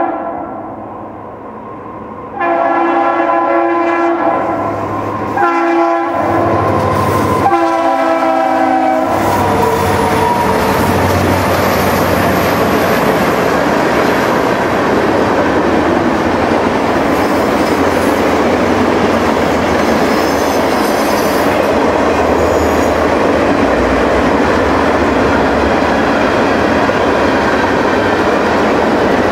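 Diesel locomotive air horn blowing the grade-crossing signal: a long blast, a short one and a final long one. Then the train passes close by, a steady loud din of locomotive engines and wheels clattering over the rail joints.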